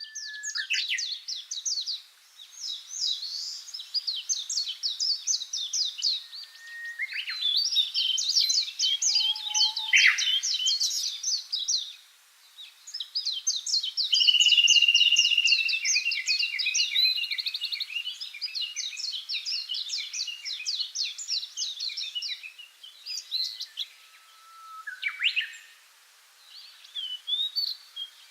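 Small songbirds singing: long, rapid trilling and warbling songs in several bursts, with short pauses between them.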